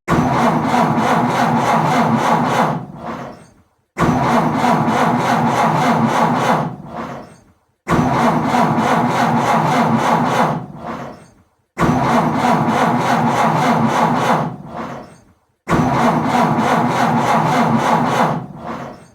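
Car engine cranking on the starter without catching, five tries about four seconds apart: each starts abruptly, churns for about three seconds and dies away. The engine is struggling to start and won't fire.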